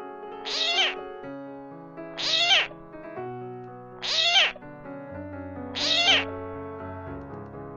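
An animal calling four times, a short call about every second and a half to two seconds, each with a wavering pitch, over background music with long held notes.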